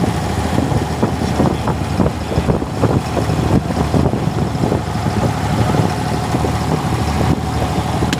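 Boat engine running steadily while the boat is under way.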